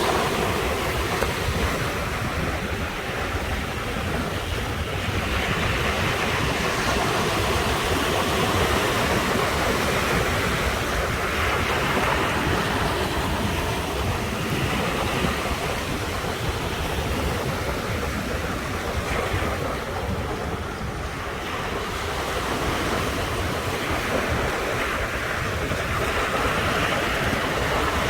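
Sea waves breaking and washing onto the shore, the surf swelling and easing every few seconds, with wind rumbling on the microphone.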